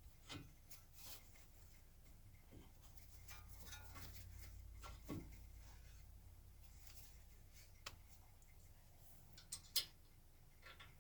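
Sparse faint clicks and light knocks from metal tools and brake parts being handled, with a sharper click about ten seconds in.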